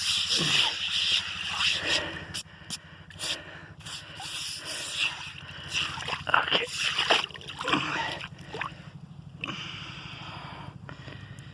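Water splashing and sloshing in a bird bath in short, irregular splashes, busier in the first half, over a steady low hum.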